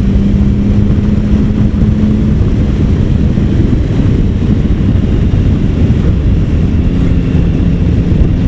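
Triumph Sprint ST 1050's three-cylinder engine running steadily while riding at road speed, under a loud rush of wind and road noise. The engine's steady hum fades about two and a half seconds in and returns near the end.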